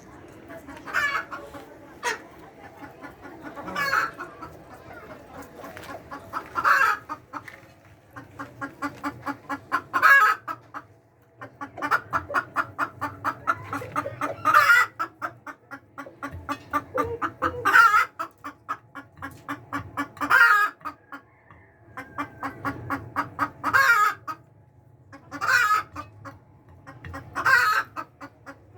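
Layer hens clucking: quick runs of clucks, each ending in a loud squawk, about every three seconds.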